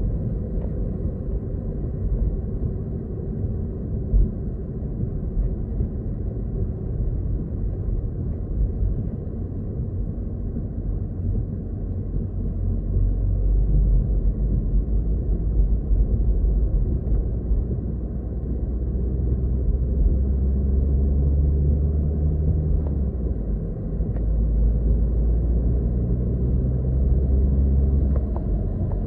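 Car driving, heard from inside the cabin: a steady low rumble of road and engine noise that grows louder about halfway through, with an engine hum coming through.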